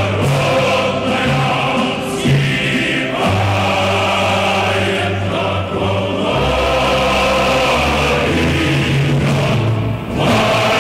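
Choral music: a choir singing sustained lines over held bass notes that change every second or two.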